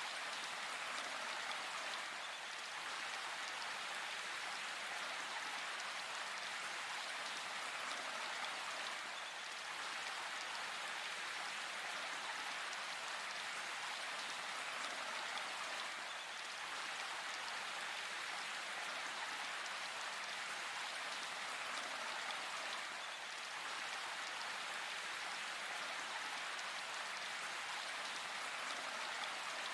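Steady rain falling in a forest, an even hiss of drops with no thunder.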